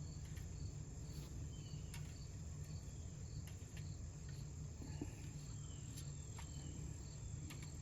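Crickets chirping steadily, with a few faint clicks scattered through as the metal rake teeth are handled and bent.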